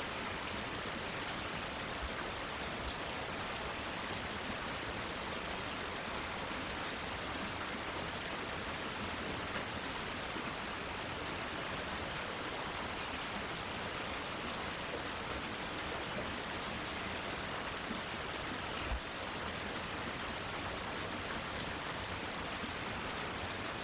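Steady rain falling, an even hiss of drops without a break, with a single soft knock about nineteen seconds in.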